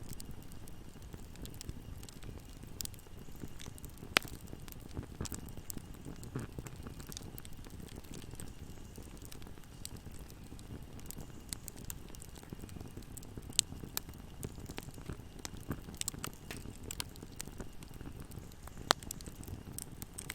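Wood fire burning in a fireplace: a low steady rumble of flames with scattered crackles and sharp pops, three louder snaps about 4, 13 and 19 seconds in.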